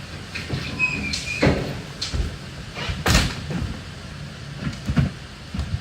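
Household junk and debris being pulled off a truck and dropped: an irregular string of thuds and clattering knocks, with a short squeak about a second in.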